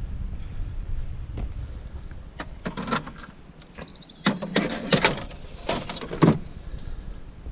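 Low wind rumble on the microphone, then a run of knocks and clatters starting about a second and a half in, loudest near the end, as objects are handled and set down.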